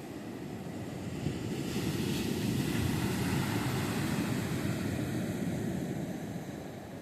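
Sea surf: a wave breaks and washes up the beach, swelling from about a second in with a hissing crash of foam, then fading away near the end.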